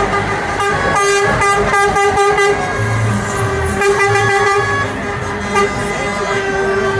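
Vehicle horn sounding a long held note, with a run of rapid short toots about a second in, over the low rumble of passing vehicle engines.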